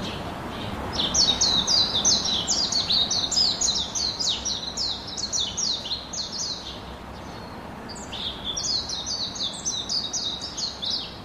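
Small birds chirping: rapid runs of high, quick down-slurred chirps, about three or four a second, in a long bout that eases off about seven seconds in and a second bout soon after, over a steady low background hiss.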